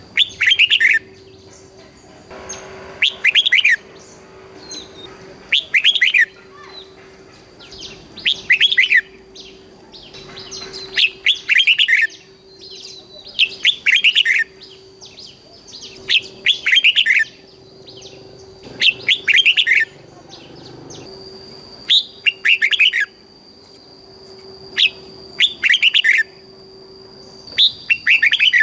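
Red-whiskered bulbul singing short, quick whistled phrases over and over, one phrase every two to three seconds. A faint steady high tone runs underneath.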